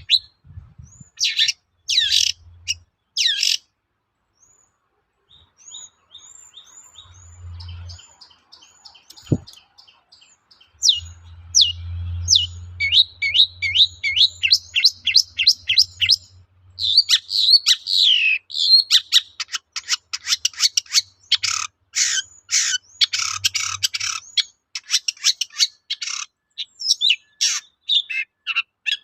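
Long-tailed shrike singing a long, varied song of harsh scolding notes, short slurred whistles and rapid chattering trills. The song includes the mimicked calls of other birds typical of a shrike in full song.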